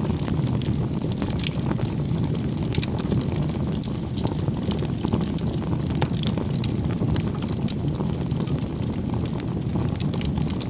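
Campfire crackling: a steady low rush with frequent irregular sharp pops and snaps.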